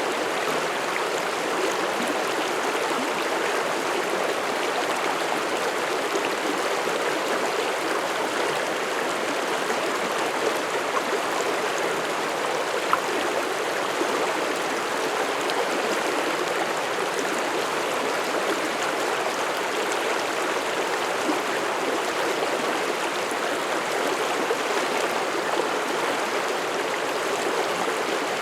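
Mountain stream running over rocks: a steady rush of flowing water with some gurgling.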